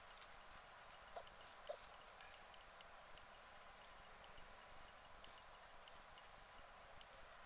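Guinea pig chewing straw, faint, with three short crisp high-pitched crackles spaced about two seconds apart and a couple of soft clicks.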